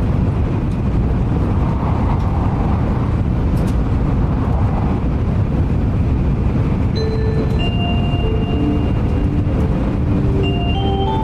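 Shinkansen bullet train running at speed, a steady low rumble and rush of noise heard from inside the carriage. About seven seconds in, a short stepping electronic chime melody starts over the noise.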